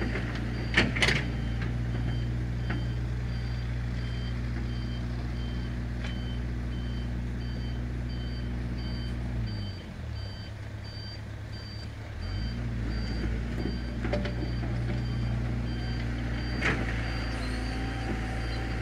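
Scania P114 truck's diesel engine running while its reversing alarm beeps over and over; the engine speed drops for a couple of seconds about halfway, then picks up again. A few sharp knocks come near the start and near the end.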